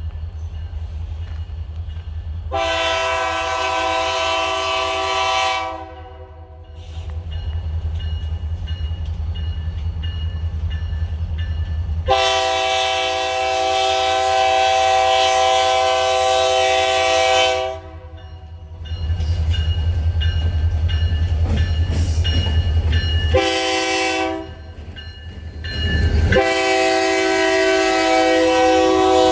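Diesel locomotive air horn sounding a multi-note chord in the grade-crossing pattern: a long blast, a longer one, a short toot, then a final long blast still going at the end, over the steady low rumble of the locomotive.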